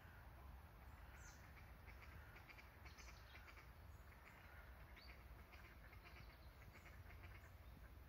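Faint bird calls: scattered short high chirps and a few quick falling notes, over a low steady rumble.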